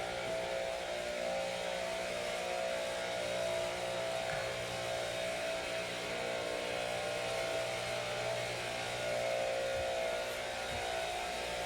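A steady mechanical hum made up of several fixed tones, holding the same level throughout.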